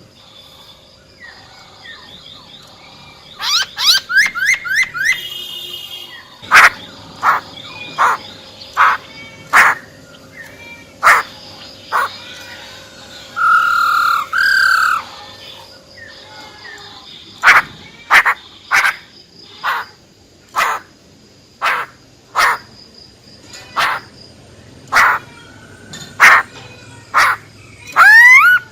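Female black-throated laughingthrush calling. A fast run of short notes comes a few seconds in, then short sharp calls about once a second, with a couple of longer gliding whistles in the middle and near the end.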